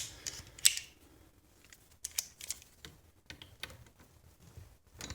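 Light, scattered clicks and taps from the old vise's metal parts being handled during disassembly, with one sharper click under a second in.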